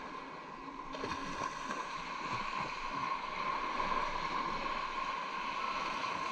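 Underwater ambience picked up by a camera in its waterproof housing: a steady hiss with a fixed whine-like tone, and a few soft low knocks and gurgles in the first few seconds.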